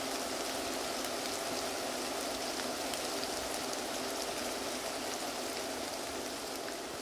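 Steady hiss like falling rain, with faint scattered ticks, beginning to fade out near the end.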